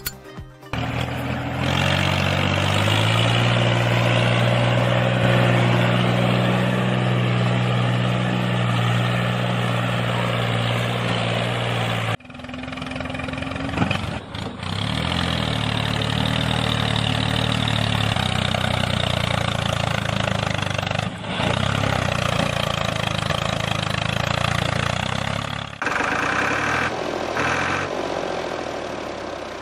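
A motor running steadily at an even pitch. The sound cuts abruptly about twelve seconds in and shifts again near the end.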